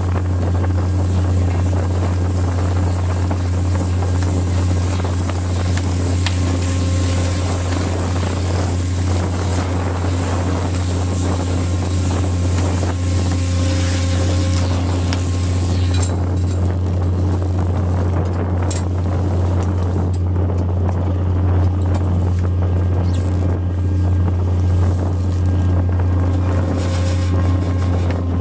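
A fishing boat's engine droning steadily as a deep hum, with a hiss of wind and water over it that thins out about halfway through.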